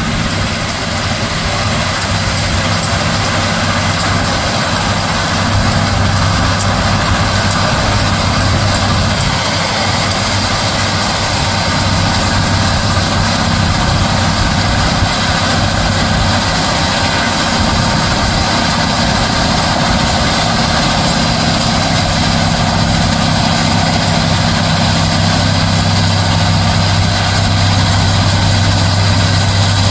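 Heavy diesel machinery of a Loram SBC-20 rail ballast cleaner running steadily at work: a deep engine hum under a dense mechanical din, growing slightly louder near the end.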